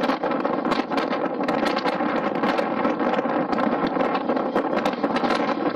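Train running along the track, heard from outside a carriage window: a steady rush of wheel and wind noise with frequent irregular clicks and knocks from the wheels on the rails.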